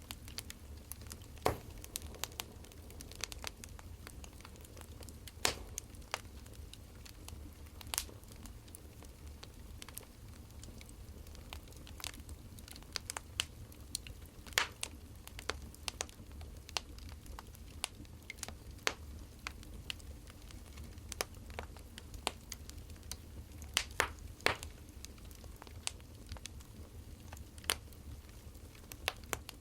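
Wood fire crackling: irregular sharp pops and snaps, some louder than others, over a low steady hum.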